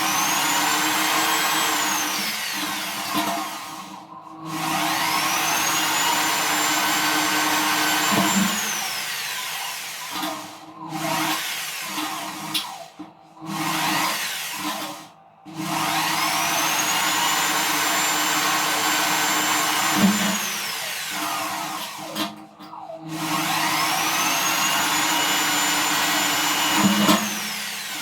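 An electric drill motor is run in repeated bursts while small holes are drilled through sheet steel. About four times it spins up to a steady high whine, holds, and winds down again, with short pauses between holes.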